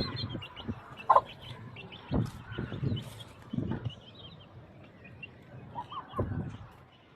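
Aseel chickens clucking, with short chirpy calls scattered throughout and a few brief low thuds.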